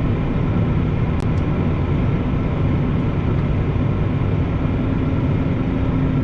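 Semi truck's diesel engine running steadily at low speed, a constant low rumble; a steady low hum joins in near the end.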